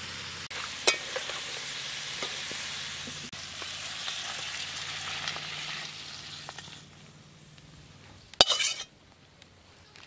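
Crab masala curry sizzling in a wok as it is stirred and scraped with a spatula, with a sharp scrape about a second in. The sizzling fades after about six or seven seconds, and a brief loud clatter follows near the end.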